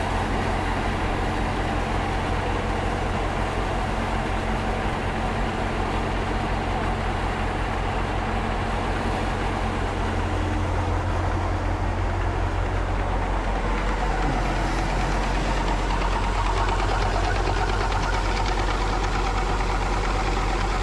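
An engine running steadily with a continuous low rumble, which drops in its lowest notes about thirteen seconds in.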